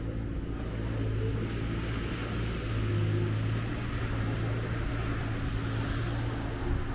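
Street traffic on wet roads: a vehicle engine running with a steady low hum, under a hiss that swells and fades twice.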